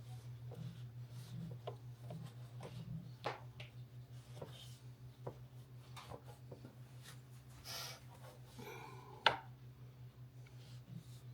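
Rubber window seal being worked by hand onto the rear window glass: scattered light taps, clicks and rubbing, with one sharper click a little after nine seconds, over a steady low hum.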